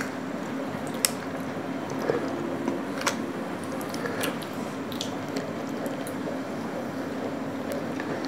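Wet chewing and mouth sounds of people eating soft chocolate pastry, with scattered sharp clicks and a faint steady hum underneath.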